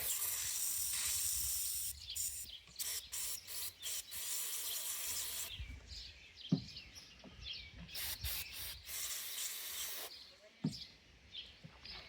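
Carburetor cleaner sprayed from an aerosol can in repeated hissing bursts, flushing rust out of an old Briggs & Stratton carburetor's main jet passages: a long burst at the start, several short ones, then two longer ones, with a couple of small knocks between.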